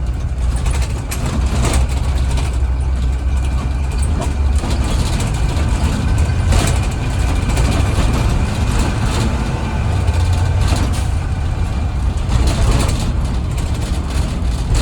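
Blue Bird Vision school bus running, heard from inside the cabin: a steady low engine and road rumble with frequent rattles and knocks from the body and fittings.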